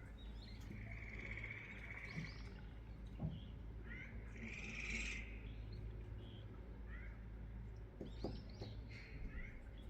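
Small birds chirping: short rising notes repeated throughout, with two longer buzzy trills, one about a second in and a louder one about four and a half seconds in.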